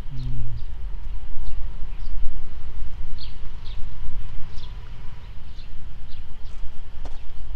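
A small bird repeating short, high chirps about every half-second to a second, over a steady low rumble on the microphone.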